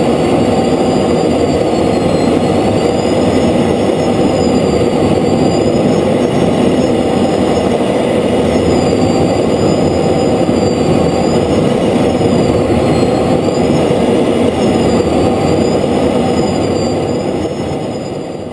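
Steady jet noise inside an F-16 fighter's cockpit: a dense engine and airflow rush with a high, wavering whine above it, fading out near the end.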